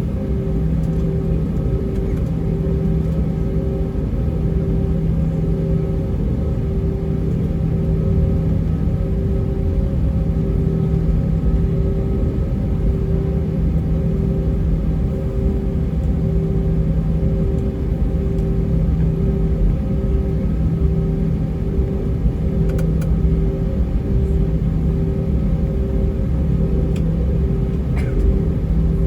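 Airbus A320 cabin noise during taxi: a steady low drone from the IAE V2500 engines at idle, with an even pulsing tone in the hum. A couple of faint clicks come near the end.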